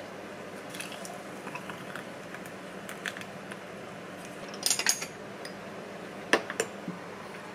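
Kitchen dishes and utensils clinking and clattering: scattered light clicks, a short burst of clatter about halfway through, then two sharp knocks about a second later, over a faint steady hum.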